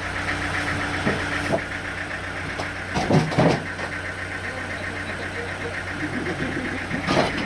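Engine idling steadily with a fast, even pulse. Two short, louder sounds come through over it, about three seconds in and again near the end.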